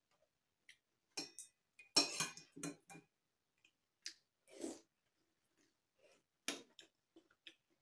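Eating sounds from a bowl of instant noodles: a spoon clinking and scraping against the bowl, with slurping and chewing, in short separate bursts, the busiest about two seconds in.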